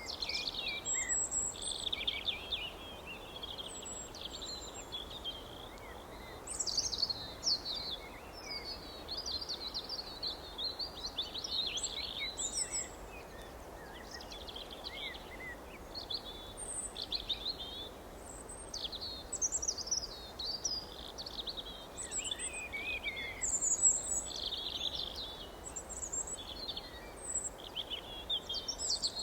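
Several small songbirds chirping and trilling, with many overlapping calls throughout, over a steady background hiss.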